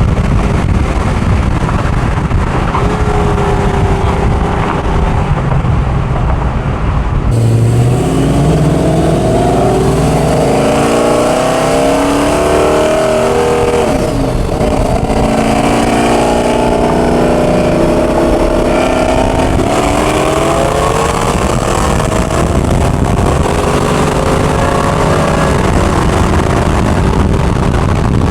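V8 truck engines at full throttle in a race, their pitch climbing through each gear and dropping back at every shift. About seven seconds in the sound changes abruptly from a rough rumble to the rising, shifting engine notes.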